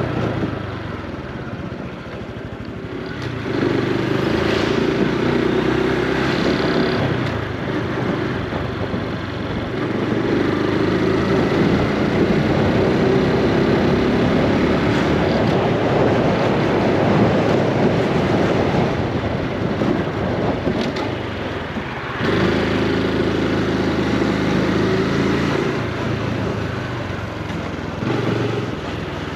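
Honda Super Cub C125's single-cylinder four-stroke engine running on the move, its note changing as the bike speeds up and eases off. A rush of wind noise fills in through the middle, where it is loudest.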